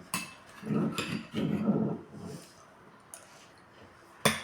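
A few short wordless vocal sounds, with sharp clicks just after the start, about three seconds in, and just before the end.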